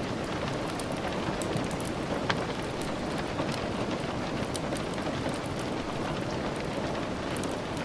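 Steady rain mixed with the scattered sharp crackles of a wood fire, with one louder snap a little over two seconds in.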